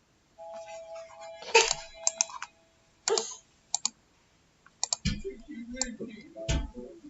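Short snatches of a music sample loop, played back and stopped several times while its loop points are set, with computer keyboard and mouse clicks between them.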